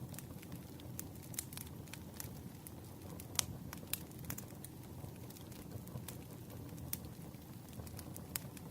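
Campfire crackling: irregular sharp pops and snaps of burning wood over a low, steady rumble, with one louder pop about three and a half seconds in.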